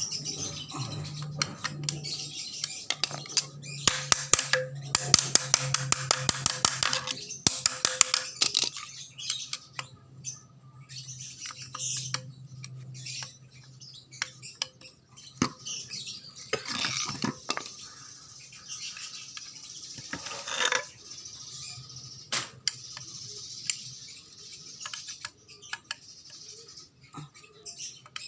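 Birds chirping and squawking, with a dense run of rapid clicking, the loudest part, from about four to eight seconds in, and scattered single clicks later.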